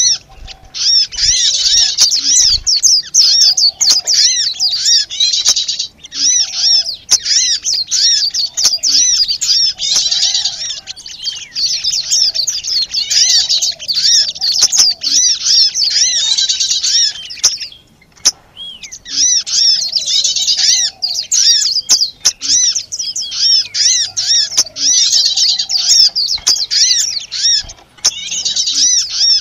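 Bird-lure (pikat) recording of many small birds chirping noisily, a dense stream of rapid high-pitched chirps with a brief break a little past halfway; this agitated flock call is used to draw small birds in.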